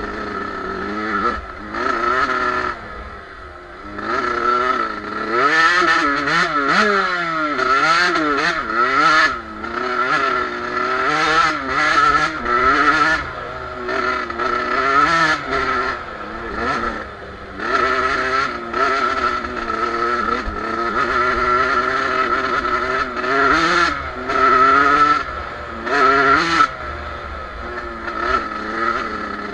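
Suzuki RM two-stroke single-cylinder motocross bike engine being ridden hard, its pitch rising and falling over and over as the rider opens and closes the throttle.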